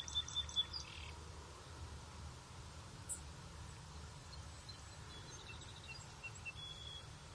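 Small birds calling: a quick run of high chirps in the first second, then a few faint scattered chirps, over a low steady rumble.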